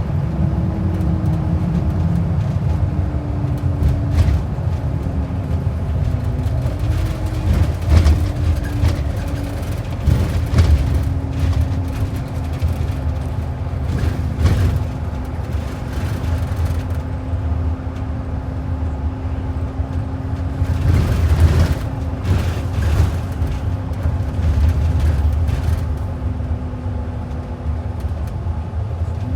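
Inside a moving transit bus: steady engine and road rumble with a drivetrain whine that slowly sinks in pitch and rises again twice. Occasional short knocks and rattles come through the cabin.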